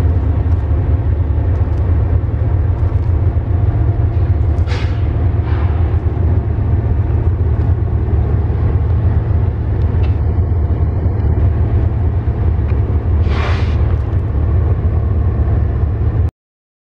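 BNSF freight train rolling past with a heavy, steady rumble, broken by brief hisses about five seconds in and again near the end; the sound cuts off suddenly just before the end.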